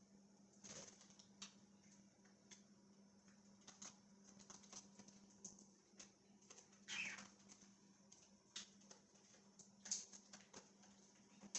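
Budgerigars giving faint, scattered short chirps and ticks, with a louder call about seven seconds in and another near ten seconds, over a steady low hum.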